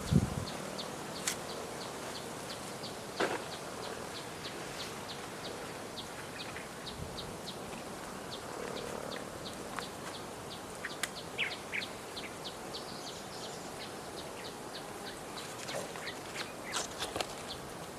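Forest ambience: a steady series of short, high chirps, about three a second, over a faint hiss, with a few other scattered chirps and a couple of light clicks.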